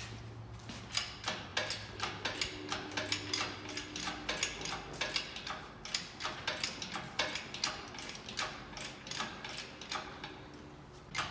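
Hand ratchet wrench clicking in quick, irregular runs of sharp clicks as bolts are worked during engine removal.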